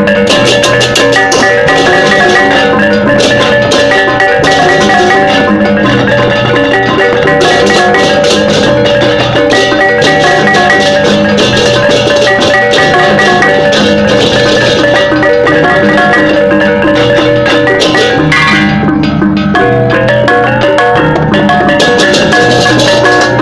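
Balinese gamelan playing loudly and without pause: struck metal-keyed mallet instruments over drums and percussion, the pattern shifting about eighteen seconds in.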